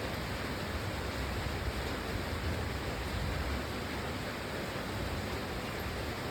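Steady rain: an even, unbroken hiss with no separate drops or events.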